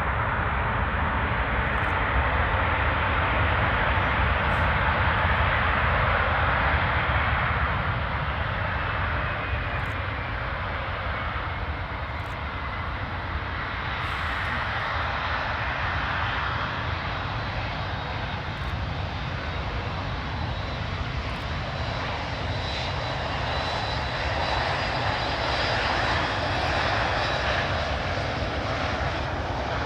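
Jet noise of a landing Airbus A380, its four engines making a steady rush that is loudest in the first several seconds. A faint whine falls in pitch about ten seconds in as it passes, and the rush swells again near the end.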